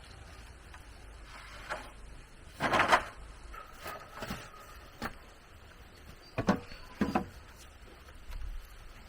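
Intermittent knocks and rustling from objects being handled, loudest in a short noisy burst about three seconds in, with a few sharp knocks near the end.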